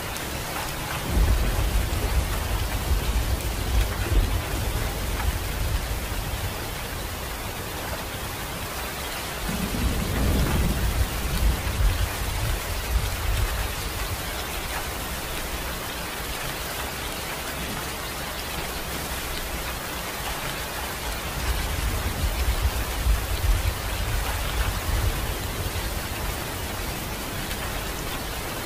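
Steady rain falling, an even hiss, with low rolling thunder swelling in three times: about a second in, around ten seconds, and again past twenty seconds.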